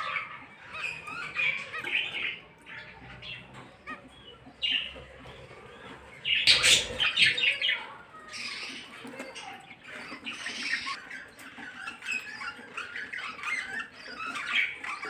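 Small caged pet birds chirping and squawking, many short calls overlapping, with a louder flurry of calls about six and a half seconds in.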